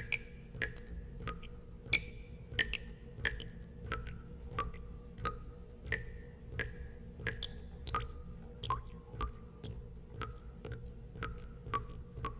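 Water drops falling one after another into water, each a short plink with a brief ringing pitch, about two a second at uneven intervals, over a steady low hum.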